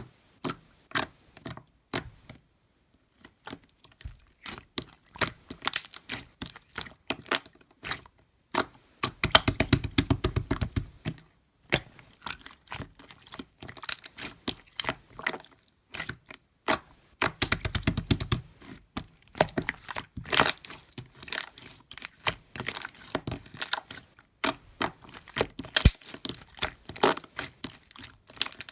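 Slime being squished, poked and stretched by hand, giving sharp pops and clicks from bursting air pockets. Two stretches of rapid crackling and squelching come about a third and two-thirds of the way through.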